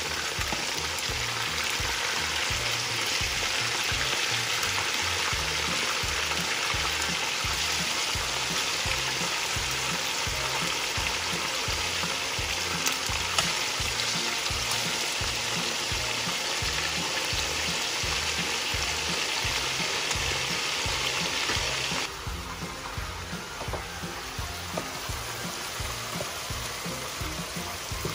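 Chicken thighs frying in shallow oil in a pan, a steady sizzle. About 22 s in it cuts suddenly to a quieter sizzle of corn and bell peppers sautéing in an electric skillet, stirred with a wooden spoon, with a few light scrapes.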